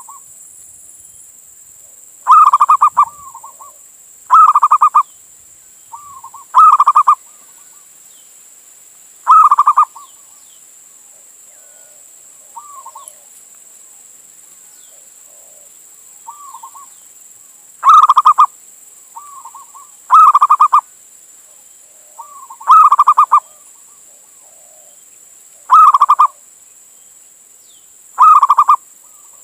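Male zebra dove (perkutut) cooing: loud, rapidly pulsed phrases repeated every two to three seconds, most with a softer single coo just before, and a pause of several seconds in the middle. A faint steady hiss lies underneath.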